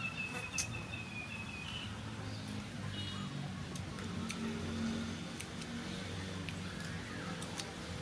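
Outdoor rural background: a single drawn-out, high whistled bird call in the first two seconds, scattered faint clicks, and a low hum underneath.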